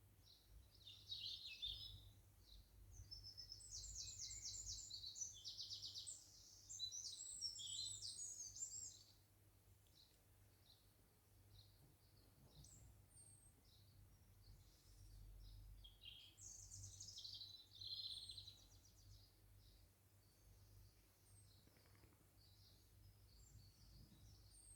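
Garden birds singing faintly: a long run of rapid, high trilled phrases in the first nine seconds, scattered chirps after, and another burst of song about two-thirds of the way through, over a low steady rumble.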